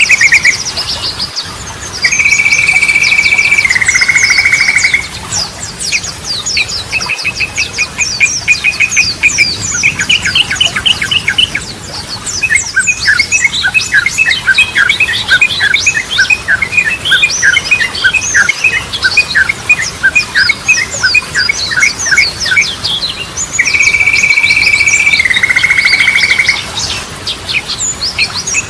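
Yellow-vented bulbul (trucukan) singing: rapid chattering phrases of quick repeated notes, with fast high chirps over them. A long steady note dropping into a lower rattle comes about two seconds in and again near the end.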